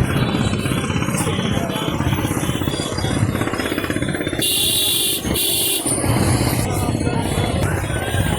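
Motor traffic noise dominated by an engine running with a fast, even pulse. About four and a half seconds in comes a bright high-pitched sound lasting over a second.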